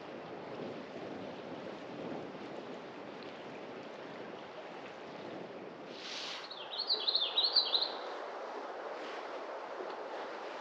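Steady rushing of wind, with a songbird's quick run of high, wavering chirps about six seconds in, lasting under two seconds.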